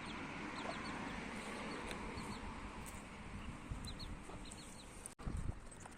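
Birds chirping in short high chirps, a few at a time, over a steady low background rumble; a brief low thump just after five seconds in.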